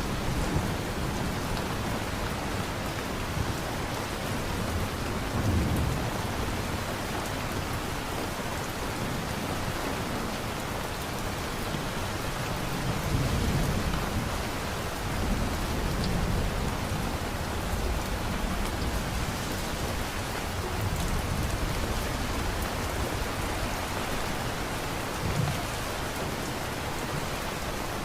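Steady heavy rain with low thunder rumbling again and again underneath, swelling several times.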